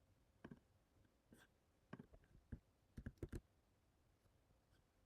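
Faint, irregular clicks of a computer being operated while navigating a web app, about eight in all, with a quick run of three a little after three seconds in.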